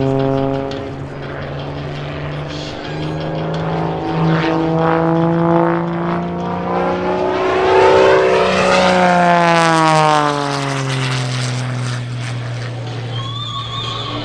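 Wolf Pitts Pro aerobatic biplane's engine and propeller droning as it manoeuvres, its pitch shifting. About eight seconds in it swells to its loudest, the pitch climbing then dropping as it passes, then eases off. Music with electric guitar comes in near the end.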